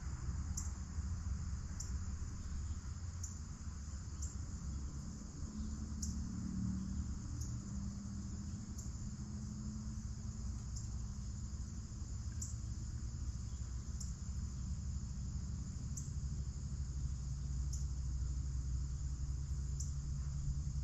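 An insect, likely a cricket, chirping steadily in short, high-pitched chirps, a little more than one a second. Underneath is a steady low outdoor rumble, with a faint hum in the middle.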